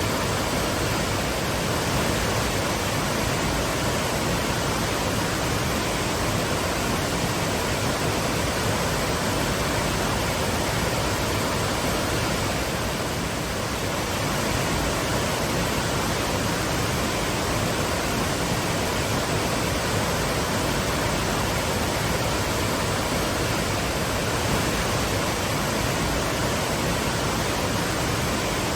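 Waterfall: water pouring and crashing in a steady, unbroken rush, easing slightly for a moment about halfway through.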